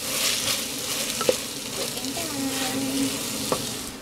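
Chicken pieces sizzling in sauce in an aluminium pot while being stirred with a wooden spoon, with a couple of sharp knocks of the spoon against the pot. The sizzle fades near the end.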